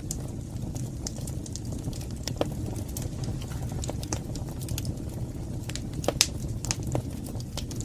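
Wood fire burning in a fireplace: a steady low rumble of flames with irregular sharp crackles and pops, one louder pop about six seconds in.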